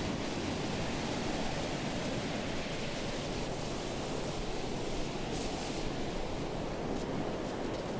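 Pacific surf breaking on a sandy beach: a steady wash of waves, with a brief hiss of foam rushing up the sand about five and a half seconds in.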